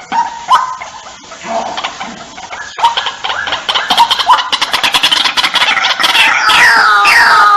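White-breasted waterhen calling. Scattered notes give way, about three seconds in, to a fast stuttering run. This builds into loud repeated descending calls, about two a second.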